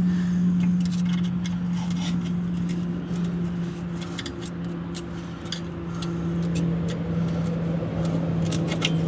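A steady low machine hum, dropping slightly in pitch about four seconds in, with scattered light metallic clicks and scrapes as the rear drum parking brake shoes are pried apart.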